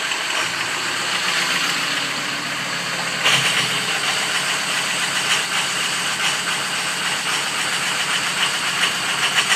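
Ford 6.0 Power Stroke V8 turbo-diesel idling steadily. About three seconds in, its sound steps up a little and holds.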